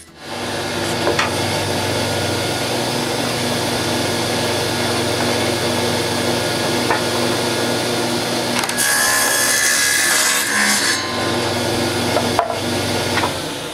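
Table saw running with a thin circular saw blade, cutting kerfs into a scrap block of wood: a steady motor hum, with the cut loudest for a couple of seconds a little past the middle. The saw shuts off near the end.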